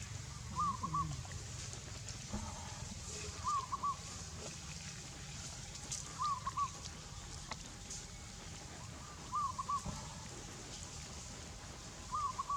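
A bird repeating a short call of three quick notes, about every three seconds, over a steady low background rumble.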